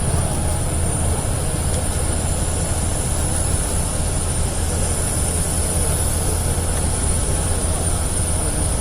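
A steady, loud low rumble with a faint high whine above it, unchanging throughout and with no distinct events.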